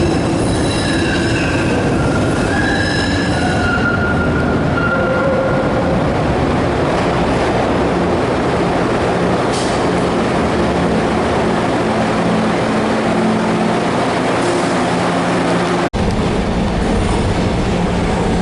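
SEPTA subway-surface trolley running on its rails in the tunnel, the wheels squealing in high whining tones for the first few seconds, then a steady rumble of the moving car.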